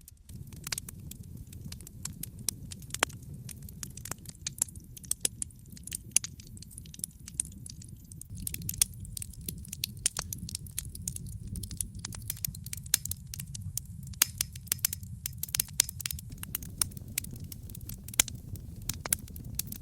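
Wood fire burning in a fireplace: dense, irregular crackling with sharp pops of varying loudness over a low, steady rumble of flame.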